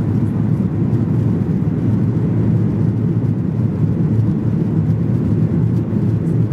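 Steady rumble of a Boeing 737-800's CFM56-7B jet engines and airflow heard inside the passenger cabin, even and unchanging in level.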